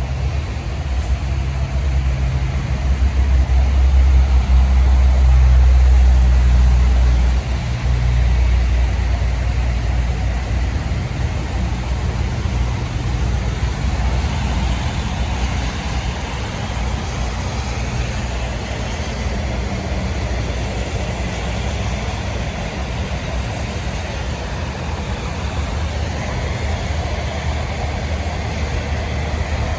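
A truck engine running with a low rumble. It swells to its loudest a few seconds in, drops back after about seven seconds, then runs on steadily.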